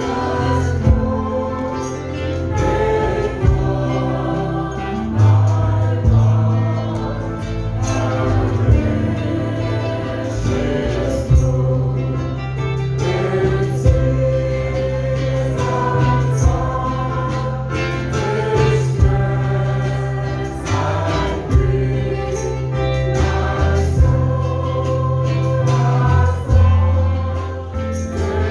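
Gospel music with a choir singing over a steady bass line and regular drum beats.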